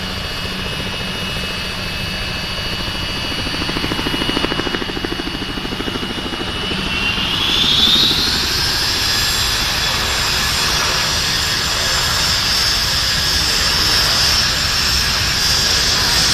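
Aircraft turbine engine whining. About halfway through the whine rises sharply in pitch and gets louder, then holds steady at the higher pitch.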